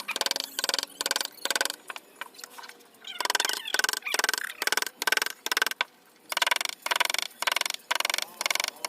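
A mallet striking a carving chisel into sheesham wood in a steady run of blows, about two to three a second, each with a short ring. The run pauses briefly twice.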